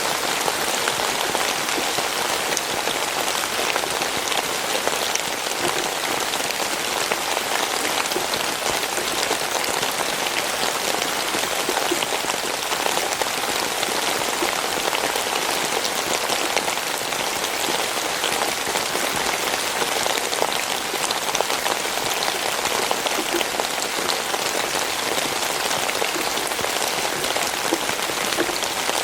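Steady rainfall, drops pattering on a surface in a dense even hiss with many small ticks.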